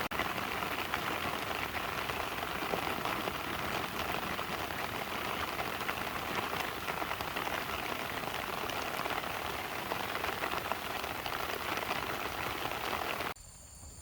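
Steady heavy rain, a dense patter of drops. It cuts off abruptly near the end, leaving a quiet background of insects chirping in steady high tones.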